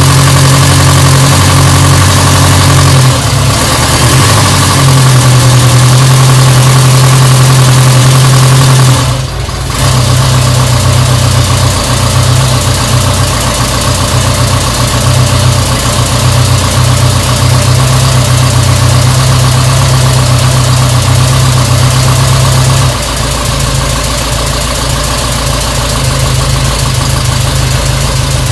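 1949 Ariel Square Four's four-cylinder engine idling on its first run after a rebuild. Its note shifts about three seconds in, dips briefly around nine seconds, then runs on, a little quieter for the last few seconds.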